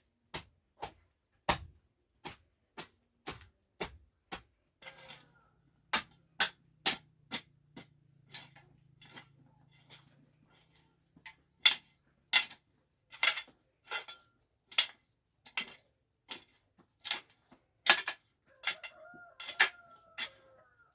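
Hammer blows on building timber or nails, struck in a steady rhythm about twice a second, with lighter taps for a few seconds in the middle.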